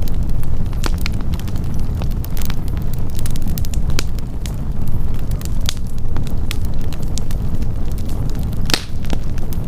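Wood campfire burning and crackling, with frequent sharp clicks and pops over a steady low rumble. One louder pop comes near the end.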